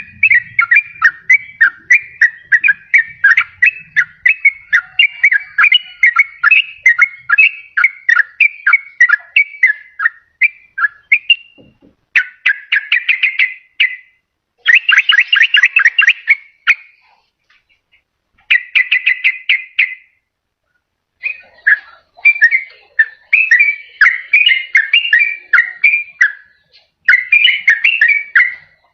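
Yellow-vented bulbul (trucukan) singing in fast, dense runs of short clear notes, several a second, with a few brief pauses after the midpoint: the rapid continuous song used as a lure call to draw wild bulbuls and to set caged ones singing.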